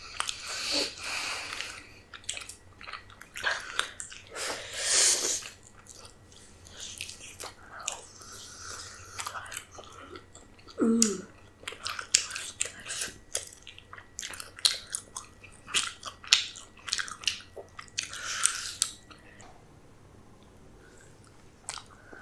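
Close-miked eating: wet chewing and biting with many short mouth smacks and clicks, and a few louder noisy bursts along the way.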